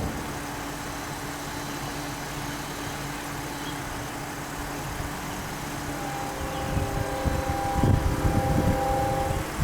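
Diesel locomotive engine running with a steady rumble and a faint steady hum; in the last few seconds it grows louder and several held tones sound together above it.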